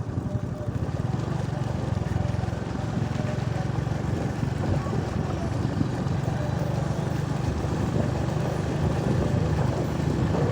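A vehicle being driven along a rural road: a steady low rumble of engine and road noise.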